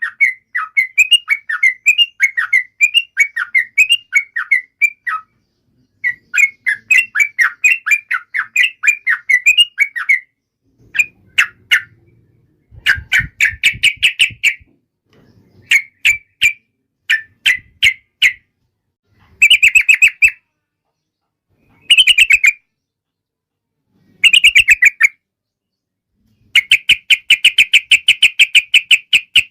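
Sooty-headed bulbul (trucukan) calling in rapid runs of chirping notes. Two long runs at the start give way to shorter bursts with gaps, and a dense, fast run of notes follows near the end.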